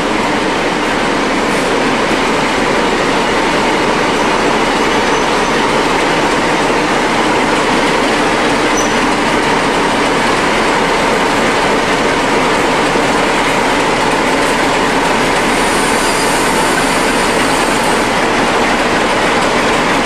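Train running along the track close by: a steady, loud noise of wheels on rail.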